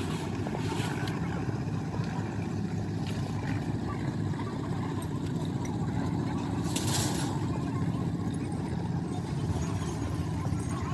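A motor running steadily with a low rumble, and a brief hiss about seven seconds in.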